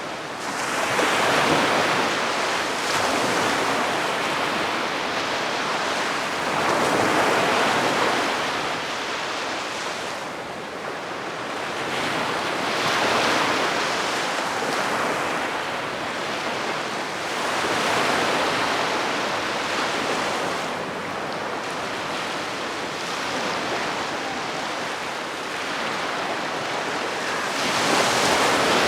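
Calm sea waves washing onto a sandy beach, each wave swelling and fading every few seconds.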